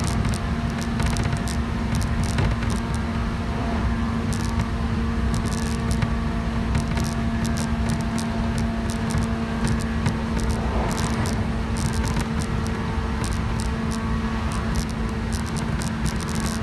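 JR 117 series electric train running at a steady speed, heard from inside the carriage. A constant motor and gear hum sits over wheel-on-rail rumble, with scattered light clicks.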